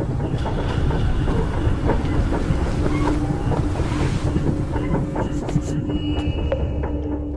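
Low rumbling suspense-score drone with scattered clicks; a steady held tone comes in about three seconds in, and the rumble thins near the end.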